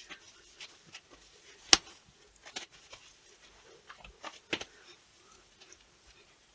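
Scattered sharp crunches and crackles at an irregular pace from food being crushed underfoot. The loudest crack comes just under two seconds in, with another strong one at about four and a half seconds.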